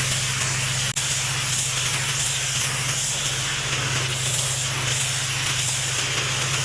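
Pressure washer running: a steady engine hum under the hiss of high-pressure water spray, which swells and fades rhythmically. A brief break in the sound about a second in.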